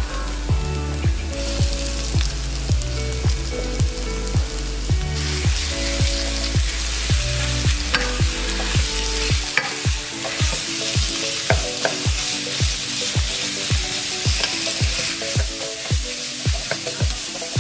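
Chopped garlic, onion, lemongrass and chillies sizzling in oil in a nonstick pan, stirred with a wooden spatula with a few knocks. The sizzling gets much louder about five seconds in as minced pork goes into the pan. Background music with a steady kick-drum beat plays throughout, its bass line dropping out about halfway.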